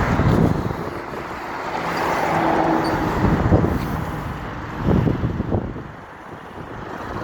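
Motor vehicle and road traffic noise, a steady rumble that swells and eases.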